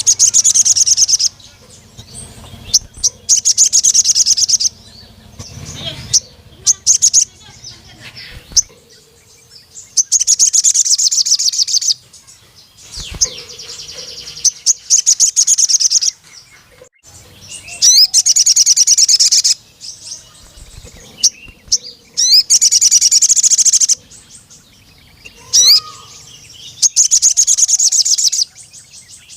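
Male crimson sunbird singing: bursts of rapid, high-pitched trilling one to three seconds long, repeated every few seconds, with short chirps between them.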